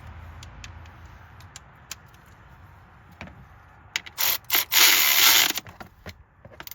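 Ratchet wrench ratcheting on a spark plug: three short bursts about four seconds in, then a longer run of nearly a second.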